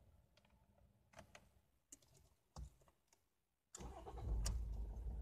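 Faint clicks of the ignition key being turned, then the car's engine starts suddenly almost four seconds in and settles into a steady idle.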